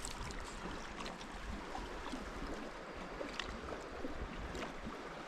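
River water running steadily, an even rushing wash, with a few faint clicks over it.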